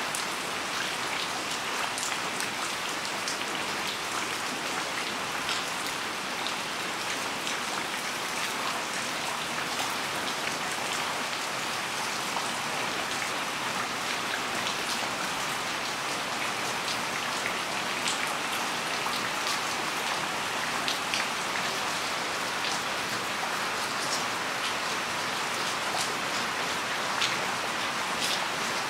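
Steady rain falling on garden plants and ground, with scattered sharp ticks of single drops striking close by.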